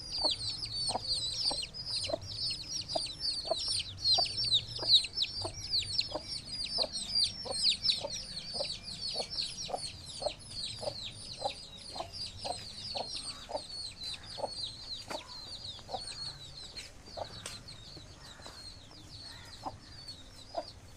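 Aseel chicks peeping continuously in a dense chorus of short, high, falling peeps, with a hen clucking steadily about twice a second underneath. The peeping grows fainter near the end.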